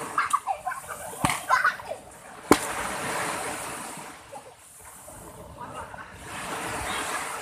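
Big ocean waves breaking and washing up the beach, the rush swelling and fading, with two sharp cracks in the first few seconds.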